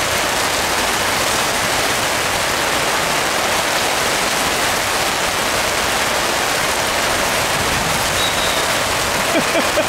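Heavy rain pouring down, a steady dense hiss, heard from under a canopy.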